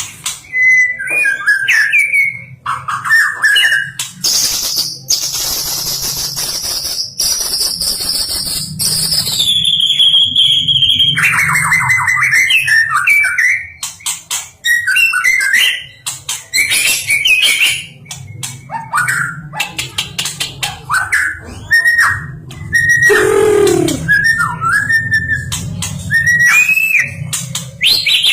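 White-rumped shama singing a long, varied song of clear whistles, rapid trills and chattering phrases, including a long high whistle that steps down in pitch and a low falling note near the end.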